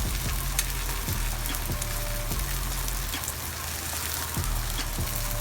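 Hot oil sizzling steadily in a frying pan with scattered small crackles as a taco shell fries.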